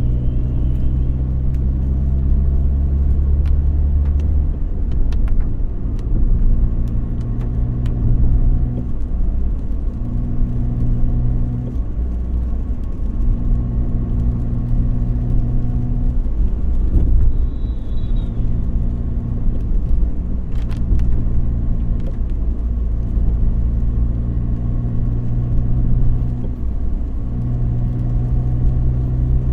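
Car driving: a steady low engine hum and road rumble whose tone drops away and returns every few seconds, with a few light clicks.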